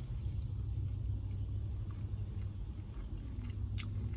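A man biting into and chewing a mouthful of fried chicken sandwich, with faint wet mouth clicks, over a steady low rumble in the car cabin.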